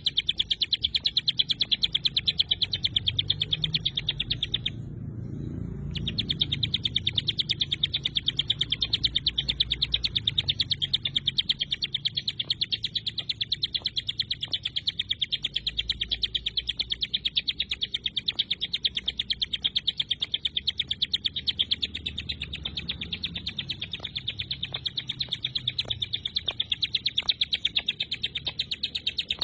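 Ciblek gunung songbird singing a rapid, tightly packed run of high chirps, the dense 'tembakan' burst song used to train competition birds, with one break of about a second near five seconds in. A faint low rumble sits underneath.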